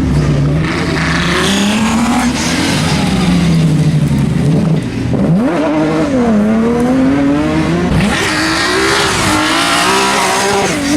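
Rear-wheel-drive rally car engine revving hard on a stage. The pitch climbs and drops several times through gear changes, with a short lift off the throttle about five seconds in.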